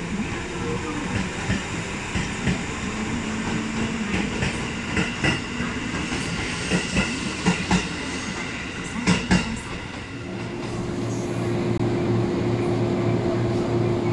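JR East 211 series electric train running alongside the platform, its wheels clacking over rail joints. About ten seconds in the clacking stops and a steady low hum remains.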